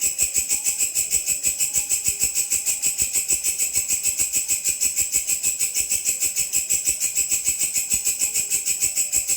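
A grasshopper-type insect (belalang) stridulating continuously: a high, shrill buzz pulsing evenly at about six or seven beats a second.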